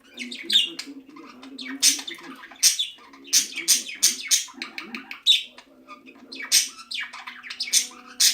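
Pet budgerigars chirping and chattering, a rapid run of sharp chirps several times a second.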